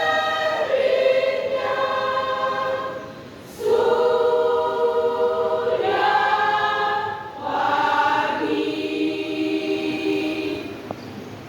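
Women's church choir singing held chords in three long phrases, with short breaths between them. The last chord fades away near the end, closing the song.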